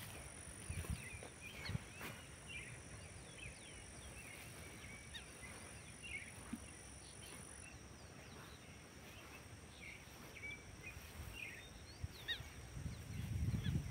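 Birds chirping and calling in short, scattered notes over a faint, steady high-pitched tone, with low rumbling near the start and again near the end.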